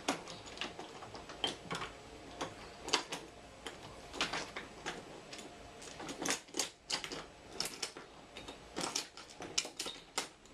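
Toy train set pieces clicking and clacking together as they are handled and pushed along the track, in irregular bursts of sharp clicks.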